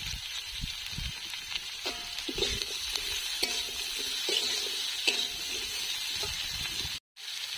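Metal spatula stirring and scraping vegetable stems and potato pieces in a kadai, with oil sizzling steadily underneath as the vegetables fry. A few low knocks of the spatula come early, and the sound cuts out briefly near the end.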